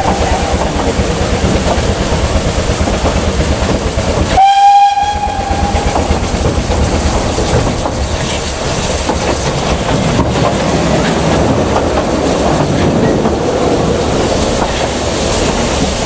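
A narrow-gauge steam train running steadily with a constant rumble and rattle from the wheels and track. About four seconds in, the locomotive's steam whistle gives one blast of a second and a half on a single steady note. The tail of an earlier blast ends just at the start.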